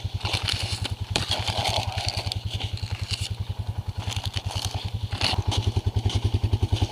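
ATV engine running at low revs with an even chugging pulse, with clattering and scraping over it. The engine gets a little louder about five seconds in.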